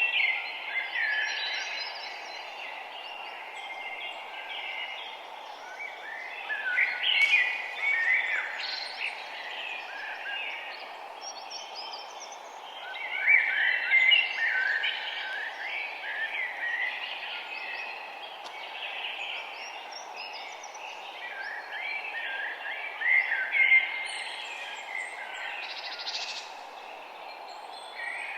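Several songbirds chirping and trilling in quick, busy phrases, louder in a few bursts, over a steady soft background hiss.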